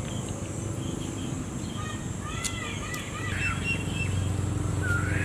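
Small birds chirping: a quick series of short arched chirps about two seconds in and a single rising call near the end, over a steady low rumble that grows louder about three seconds in.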